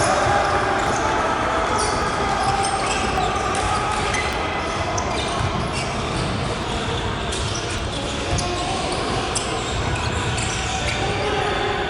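Game sounds of a basketball game in a gym: a ball bouncing on the court with scattered short knocks, over indistinct voices echoing in the large hall.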